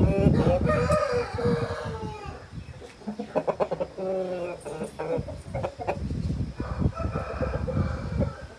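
Aseel rooster crowing: one long crow that sinks a little in pitch over the first two seconds, followed by shorter calls and clucking from the birds.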